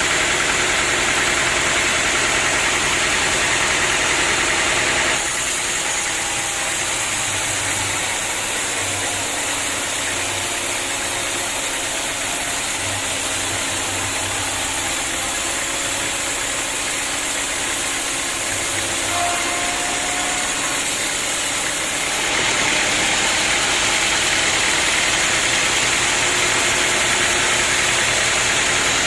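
Sawmill machinery running steadily. It is louder, with more hiss, for about the first five seconds and again from about twenty-two seconds on, and quieter in between.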